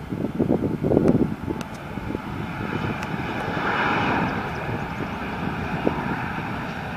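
Bombardier CRJ-700's twin General Electric CF34 turbofans at takeoff thrust, a steady jet rush that swells to its loudest about four seconds in. Low buffeting on the microphone in the first second and a half.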